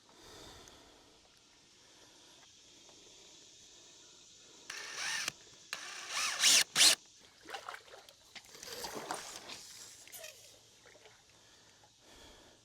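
Power drill driving screws into dock boards in a few short runs, the motor whine rising and falling, about five and seven seconds in and again near nine seconds.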